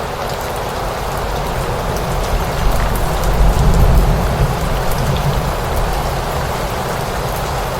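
Steady rain falling, with fine scattered drop ticks, and a low rumble that swells about three seconds in and fades by about five seconds.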